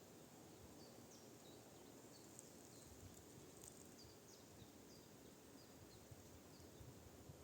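Faint, high bird calls in a forest: a loose string of short chirps, each sliding downward, repeated every half second or so over a low steady hiss.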